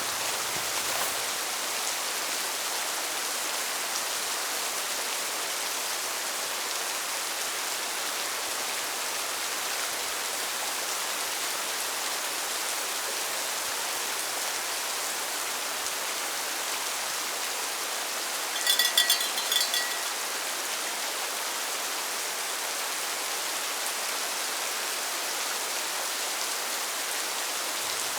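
Steady rain falling, an even hiss. About two-thirds of the way through, a brief high-pitched sound with a few clear tones rises above the rain for about a second.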